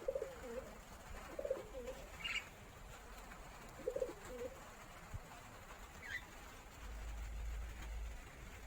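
Bird calls: three low two-part coos in the first half, with two short high chirps in between.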